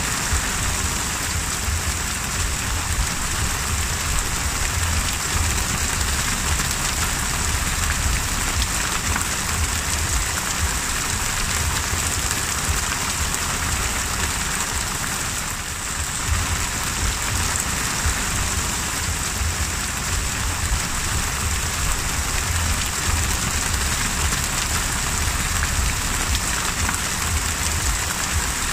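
Heavy rain falling on the open sea: a steady, dense hiss of drops striking the water's surface, with a low rumble underneath.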